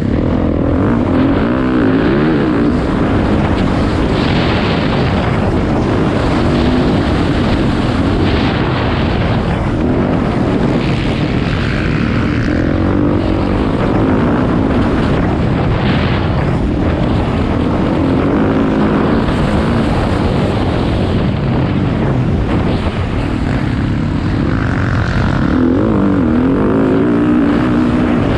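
Motocross dirt bike engines running on the track, their pitch rising and falling as the riders rev through the course.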